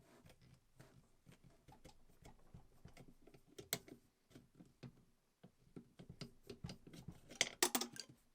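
Irregular small clicks and taps of metal parts and tools being handled on a workbench, with a quick run of sharper, louder clicks near the end.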